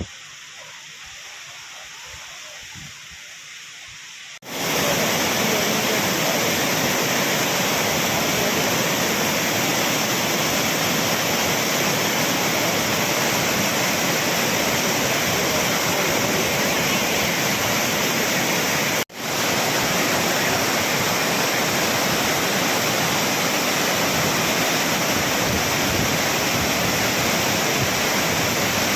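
A waterfall in flood: a loud, steady rush of falling water. It comes in abruptly about four seconds in after a quieter hiss, and cuts out for an instant a little past the middle.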